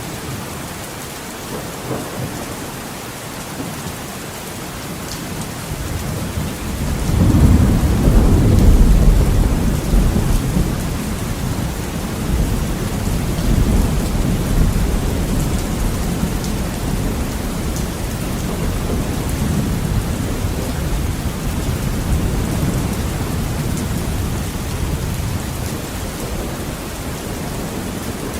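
Heavy rain pattering steadily on a window. About seven seconds in, a deep roll of thunder swells up, is loudest for a few seconds, then rumbles on and slowly fades.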